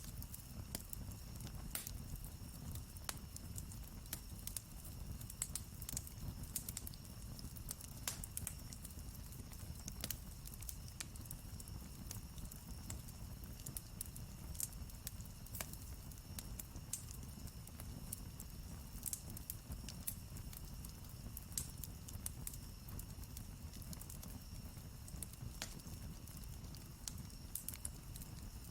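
Wood campfire crackling, with irregular sharp pops and snaps over a low, steady rumble of the burning fire.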